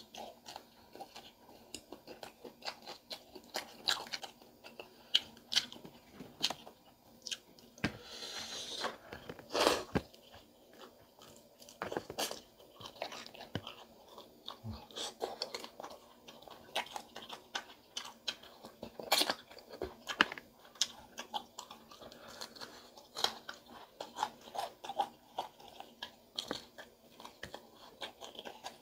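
Close-up crunching and chewing of crispy fried pig tail: many sharp, irregular crunches as the crackling skin is bitten and chewed.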